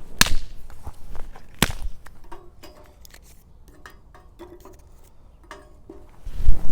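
Thin wooden sticks dropped into a samovar's fire tube onto a lit wax firelighter: two sharp knocks within the first two seconds, then small faint clicks. A low thump-like rumble comes near the end.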